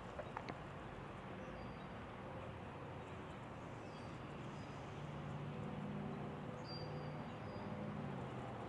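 Quiet riverbank ambience with a short, high bird call repeating every few seconds. A couple of light clicks come right at the start, and a faint low hum grows in about halfway through.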